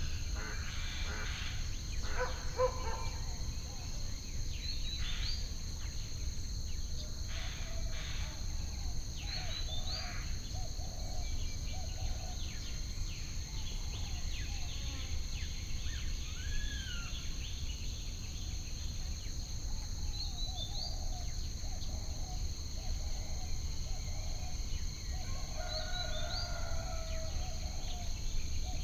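Nature ambience of insects and birds. A steady high insect drone runs throughout, with short rising bird chirps every few seconds and bursts of warbling calls, all over a low steady rumble.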